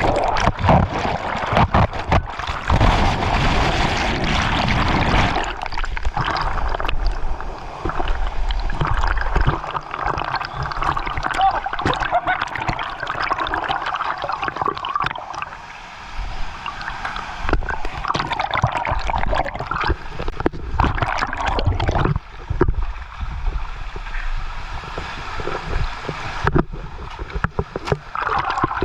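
Rushing waterfall water right at the microphone, gurgling and sloshing without a break. Heavy low buffeting of water against the microphone comes in the first few seconds and again about two-thirds of the way through.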